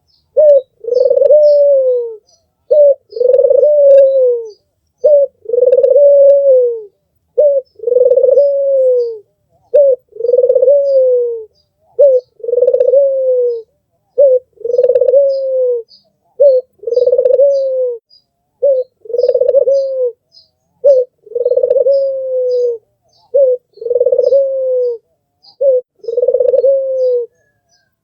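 Albino ringneck dove (puter) cooing over and over, about twelve phrases, one every two and a half seconds or so: each a short note followed by a longer drawn-out coo that falls off at its end. Faint high chirps of small birds sound behind it.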